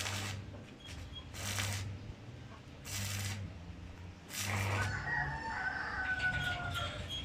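A rooster crowing: one long call about five seconds in, gliding slowly down in pitch. Before it come short hissing strokes about every second and a half.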